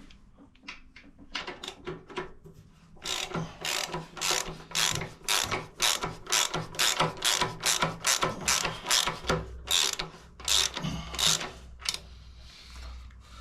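Socket ratchet clicking as a bolt is wound in: a few light clicks at first, then a long run of regular clicks at about three a second that stops shortly before the end.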